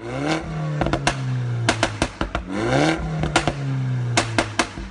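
Car engine revving: the pitch climbs quickly, then holds a steady note, with sharp cracks scattered through it. The rev-and-hold repeats about every two and a half seconds.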